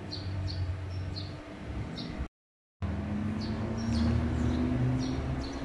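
Small birds chirping repeatedly, about two short chirps a second, over a steady low hum. The sound drops out for half a second about two seconds in.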